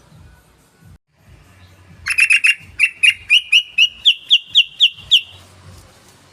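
Yellow-vented bulbul (trucukan) singing. About two seconds in comes a quick rattle of four sharp notes, followed by a run of about ten loud, clear notes roughly four a second, rising slightly in pitch, which stops about five seconds in.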